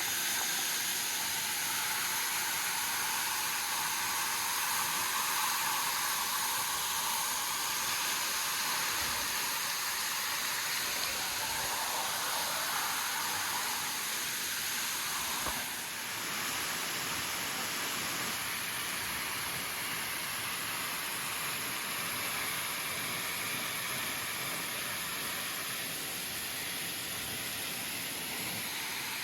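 Steady rushing of a waterfall: an even hiss of falling water with no separate events. About halfway through it dips briefly and changes character abruptly.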